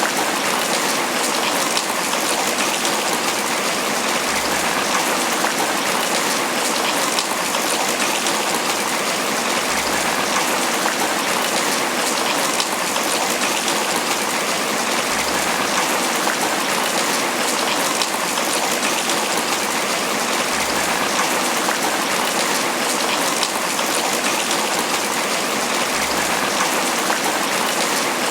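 Steady tropical rain falling on banana leaves, an even, unbroken patter.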